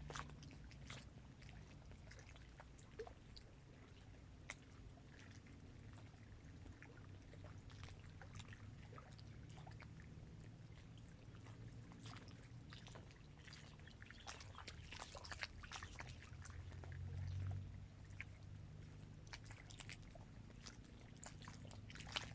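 Faint small waves lapping at the shore of a dam reservoir: a scatter of soft splashes and ticks over a low rumble.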